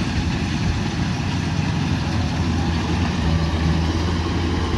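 Kubota DC105X combine harvester's diesel engine running steadily with a low, even hum.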